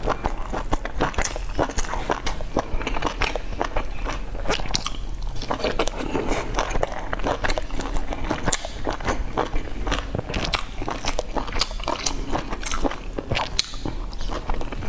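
A person chewing and biting soft steamed dumplings, a dense run of small mouth clicks with no pause.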